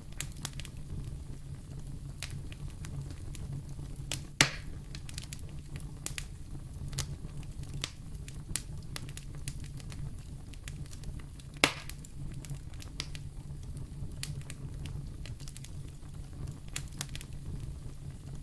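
Wood fire burning in a fireplace: a steady low rumble with constant fine crackling, and two sharp louder pops, one about four seconds in and another about twelve seconds in.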